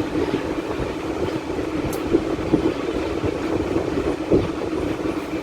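Steady mechanical rumbling background noise with small irregular clicks.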